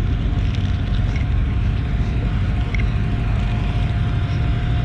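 A motor vehicle's engine running with a steady low rumble and a faint steady whine above it.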